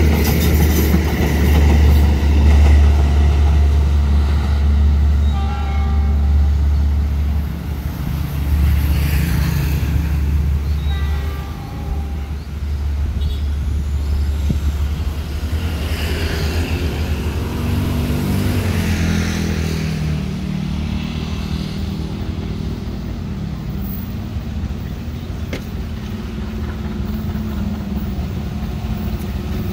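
A diesel-hauled train passing on the line, a heavy low rumble that eases about twelve seconds in, followed by a steadier engine hum that rises in pitch for a few seconds.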